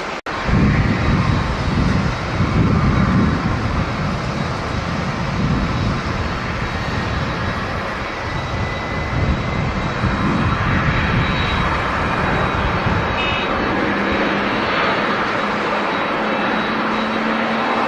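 Jet airliner engine noise, loud and continuous, with gusts of wind buffeting the microphone in the first few seconds. Over the last few seconds a low engine tone comes in and rises slightly.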